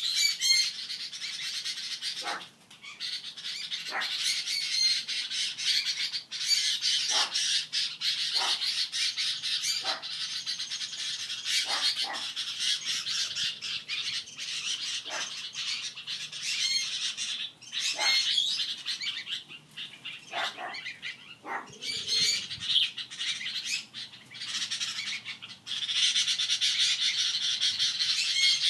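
Birds calling without a break, with a dense run of high squawks and chirps and separate sharp, falling calls every couple of seconds, from a parent bird and its fledgling.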